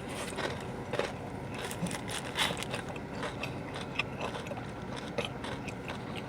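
Chewing and biting into a crispy fried chicken sandwich: irregular crunches and small clicks over a steady background hum.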